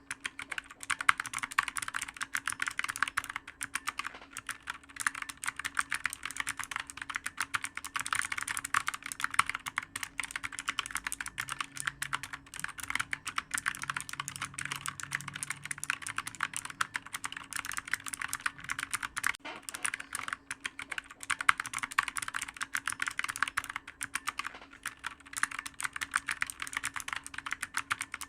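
Computer keyboard typed on continuously: a fast, dense run of clicky keystrokes with a few brief pauses.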